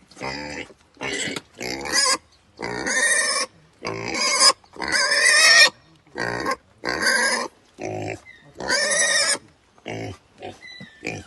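Pig squealing in a run of short, loud calls, about ten in all, each under a second long, with quieter calls near the end.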